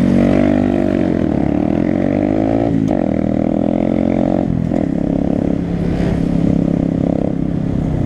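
Honda Grom's small single-cylinder motorcycle engine pulling away and riding through the gears: the engine pitch rises and falls, drops abruptly about three seconds in at a gear change, then runs at a steadier pitch.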